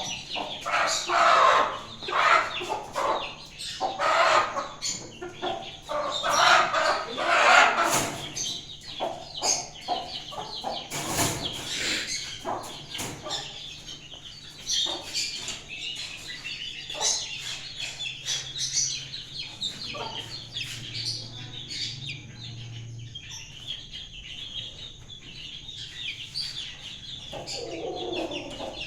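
Chickens clucking and calling, with three loud, long calls in the first eight seconds and quieter scattered calls after them. A single sharp knock comes about eleven seconds in.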